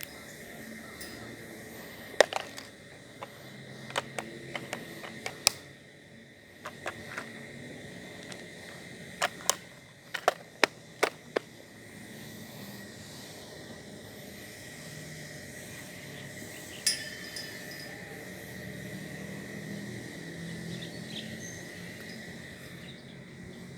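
A steady high-pitched insect drone, with scattered sharp clicks of handled fishing tackle coming in irregular clusters in the first half and once more later.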